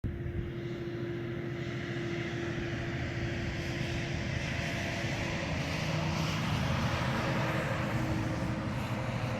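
Vehicle driving: steady road and engine noise with a held low hum.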